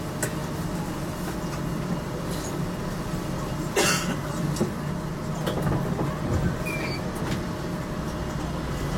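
GTL8 tram heard from inside: a steady low rumble with scattered clicks and knocks, and one loud clank about four seconds in.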